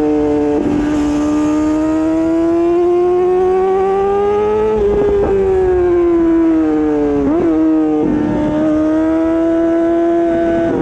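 Honda CBR600RR's inline-four engine through an Akrapovič exhaust, heard from on the bike: revs climb slowly, drop sharply near the middle as at a gear change, ease off, give a quick blip about two-thirds through, then run steady.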